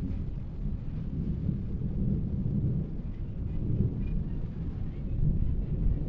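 Thunder rumbling low and steadily during a lightning storm, with no sharp crack.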